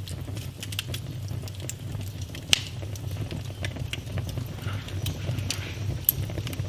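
Wood fire burning in a fireplace, crackling with irregular sharp pops over a low steady rumble; one pop about two and a half seconds in is the loudest.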